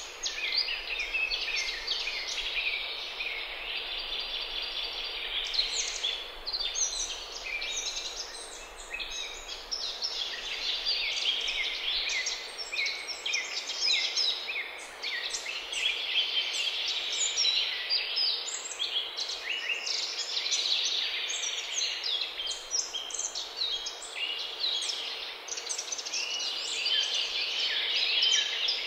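Several songbirds singing at once: a dense, unbroken run of overlapping high chirps and trills.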